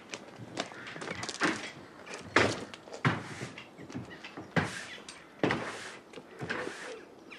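A series of clunks and bangs, like things being handled or shut, with four louder ones spread through the middle of the stretch and lighter knocks between.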